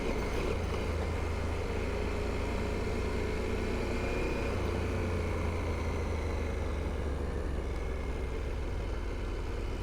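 KTM 890 Adventure R's parallel-twin engine running at a steady, even pace under a constant rush of wind and tyre noise.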